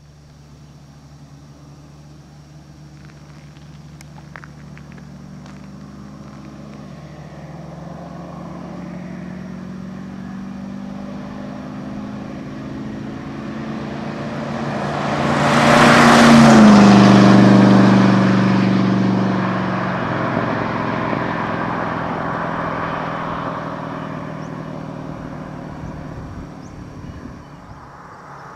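Rover P6B's 4.6-litre V8 driving past. The engine note grows steadily louder as the car approaches, peaks about 16 seconds in as it passes with a sudden drop in pitch, then fades as it drives away.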